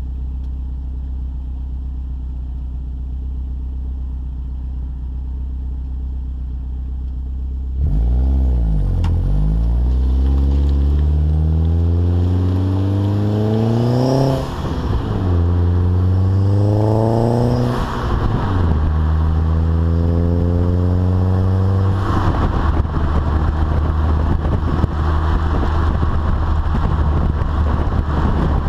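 VW Passat 1.8T turbo four-cylinder with a 3-inch test pipe, Magnaflow glass pack and Borla Pro XS muffler: the exhaust drones steadily at a low idle, then about eight seconds in gets louder as the car pulls away and accelerates, the note rising through three gears with short dips at each shift, before settling into a steady cruise.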